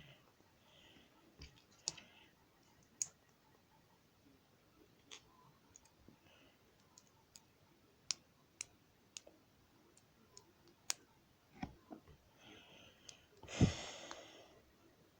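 Plastic Lego pieces clicking and tapping at irregular intervals as they are handled, with one louder, longer rattle near the end.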